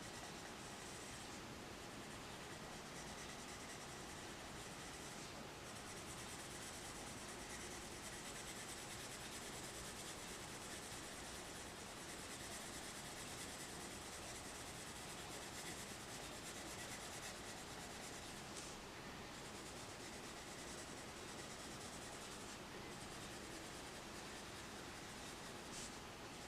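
Faint, steady scratching of a Holbein coloured pencil rubbing back and forth on paper as petals are shaded in.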